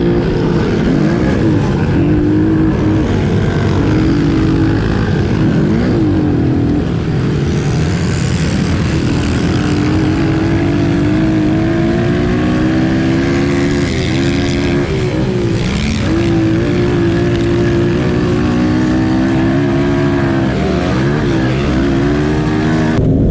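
Several 110cc pit bike engines racing together on a dirt track, revving up and dropping off over and over as the riders accelerate and back off through the corners.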